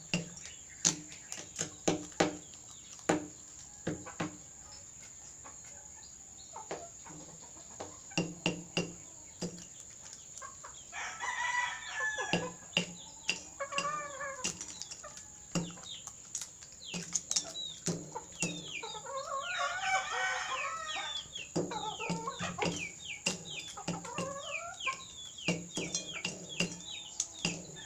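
A rooster pecking at nachos: a run of sharp, irregular pecking taps, with stretches of clucking calls about eleven seconds in and again from about nineteen seconds on.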